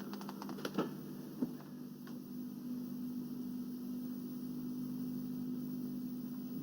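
Steady low electrical hum, with a few faint soft clicks in the first couple of seconds.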